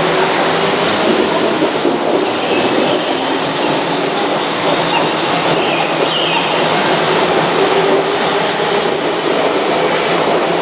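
Keihan 2200 series electric commuter train moving along the platform, its motors and wheels on the rails making a loud, steady running noise.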